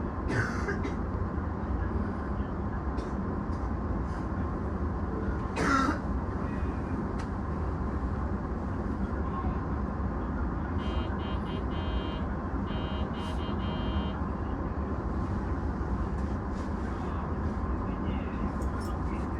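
Steady low hum of a stationary electric commuter train, an E233-series car standing still while it waits out a safety check. There is a short hiss just after the start and another, louder one about six seconds in. About eleven seconds in come two short buzzing tones, a second or so apart.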